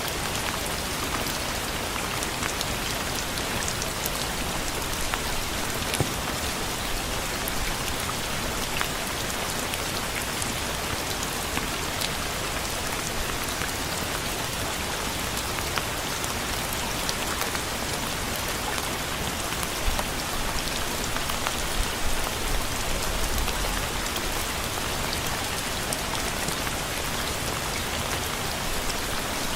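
Steady rain falling, with scattered sharper ticks of single drops hitting a surface. A few louder low thuds come about twenty to twenty-three seconds in.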